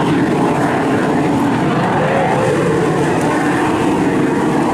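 BAC Strikemaster jet trainer in flight, its Viper turbojet giving a steady, unbroken jet noise.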